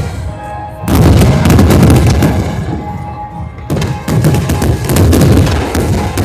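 Fireworks going off in rapid volleys: a dense run of booms and cracks that surges about a second in and again a little past halfway, with music playing underneath.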